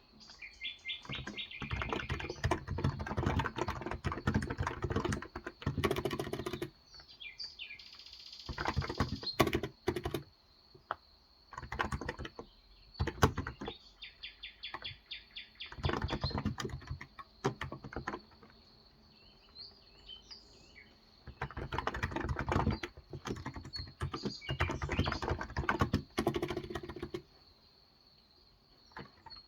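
Typing on a Cox Endeavor tenkeyless electrostatic capacitive keyboard with light 35 g switches, in runs of rapid keystrokes broken by pauses. Birds chirp faintly, heard mostly in the pauses.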